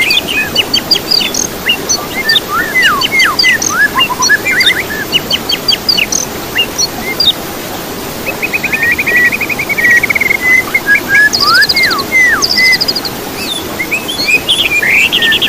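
Songbird training recording of busy birdsong: many short chirps and sharp downward-sweeping whistles, with fast rattling trills about halfway through and again near the end, over a steady background hiss.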